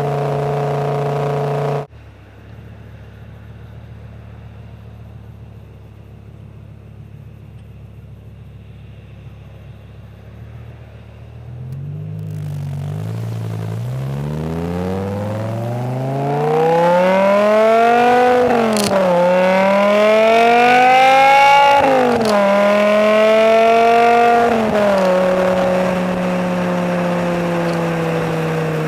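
BMW E60 M5's V10 engine through an aftermarket exhaust: a steady engine tone that cuts off abruptly, then a quiet low hum, then from about halfway through the car accelerates hard, the exhaust note climbing in pitch and getting louder with two sudden drops at gear shifts, before easing back to a steady cruise.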